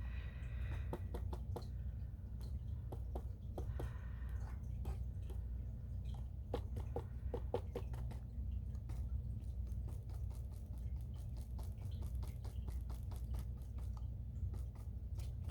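Scattered light clicks and ticks from handling a flipped paint cup and canvas during an acrylic pour, over a steady low hum.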